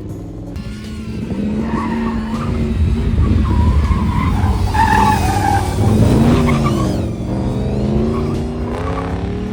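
Pontiac Firebird's 305 V8 revving up and down hard through an autocross course, with tyres squealing through the corners. The squeal is loudest around the middle.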